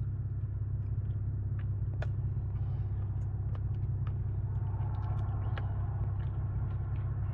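Steady low engine and road drone heard from inside the cabin of a big-turbo BMW 540i with a B58 inline-six, running at an even pace with no revving.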